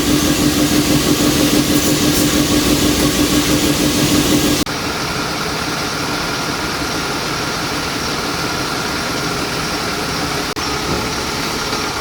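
A motor running steadily with a hum. Partway through it drops suddenly to a quieter, even running noise.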